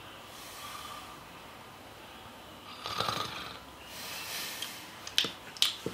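A sleeping person snoring, three slow, raspy breaths a second or two apart. Near the end come three sharp clicks, louder than the breathing.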